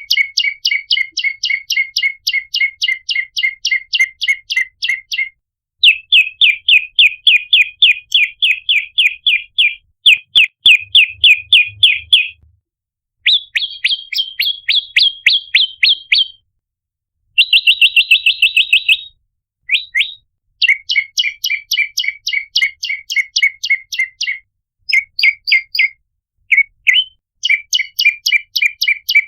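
Prenjak lumut (red-headed prenjak) calling: fast trains of sharp, high chip notes, about six a second, in runs of a few seconds separated by short pauses, some runs shifting pitch.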